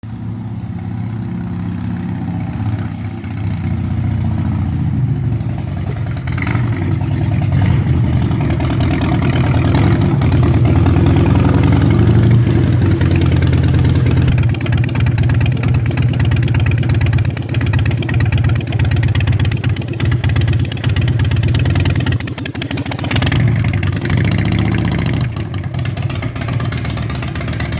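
Harley-Davidson motorcycle's V-twin engine running, growing louder from about six seconds in. It cuts off abruptly at the end.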